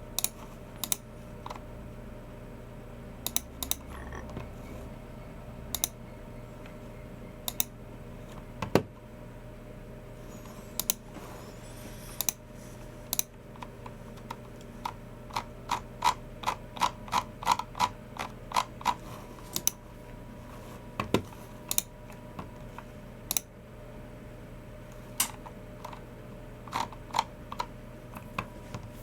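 Typing on a Logitech MX Keys Mini low-profile scissor-switch keyboard: scattered single keystrokes, then a quick run of keys about midway, then scattered keystrokes again. A steady faint hum lies underneath.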